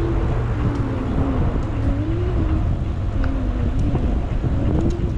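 Wind rushing over the microphone while riding a bicycle: a steady, loud rumble, with a faint low tone wavering slowly up and down over it.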